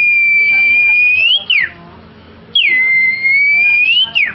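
A boy whistling a bird-call imitation: two long, high whistles. Each opens with a quick downward slide, holds steady, then rises slightly and drops sharply at the end.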